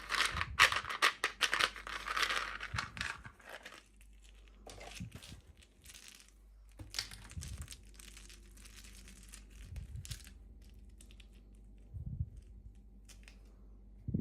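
Plastic and paper packaging being torn open and crinkled by hand, densest in the first few seconds, then scattered crinkles with a few soft bumps.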